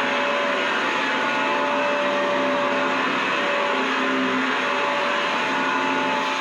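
Vacuum cleaner running steadily: a constant rush of air with a steady motor whine, and lower hum tones that fade in and out.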